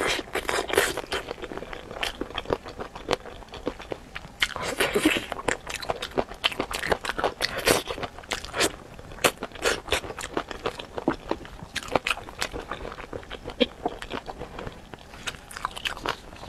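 Spicy chicken feet being bitten and chewed up close: a dense, irregular run of sharp clicks and crackles.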